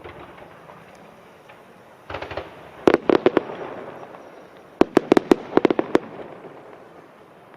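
Aerial fireworks shells bursting in two rapid volleys of sharp bangs, one about two to three seconds in and another around five seconds in.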